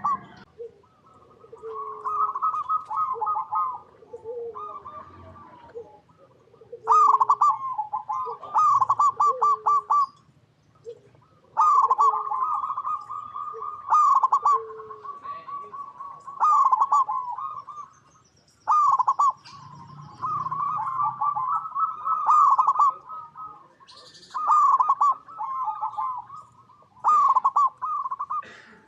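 Zebra doves singing: phrases of rapid, staccato cooing notes, repeated every two or three seconds, with softer, lower coos between the phrases in the first half.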